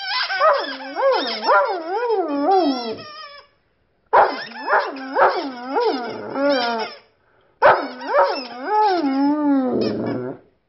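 A dog howling and whining in three long bouts, its voice swinging quickly up and down in pitch like a dog "talking", with short pauses between bouts.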